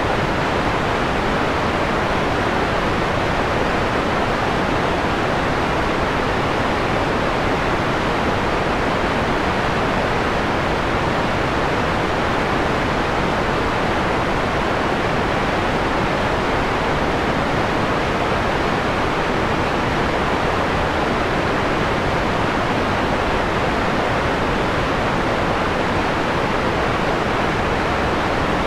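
Steady synthetic white noise, filtered so that its top end is rolled off, giving a mellow rushing hiss. It is midway through being dimmed from bright to mellow.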